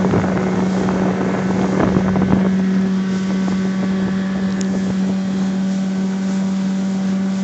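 Evinrude (Johnson) 9.9 hp outboard motor running at a steady speed, pushing an inflatable boat under way, with wind on the microphone. Rougher splashing or wind noise rides over the engine for the first two seconds or so.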